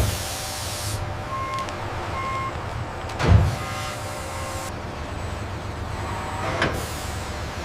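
Heavy industrial machinery humming steadily, with two short electronic beeps, bursts of air hiss and one heavy thump in the middle, plus a lighter knock near the end.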